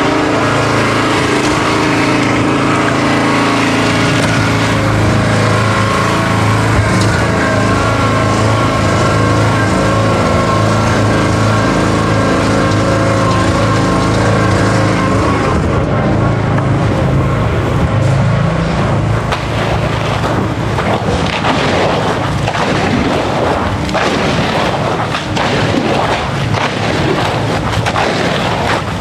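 An engine running steadily and loudly, its sound turning rougher and more uneven about halfway through.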